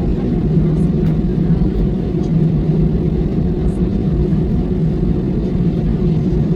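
Steady low drone of engine and air noise inside a passenger airliner cabin, with no change in level.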